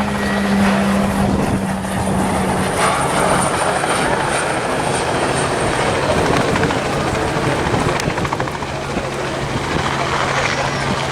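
Loud, steady aircraft noise with a low hum running through it.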